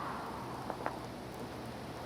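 Steady hiss of wind and wind-blown snow in a snowstorm, with two light clicks a little under a second in.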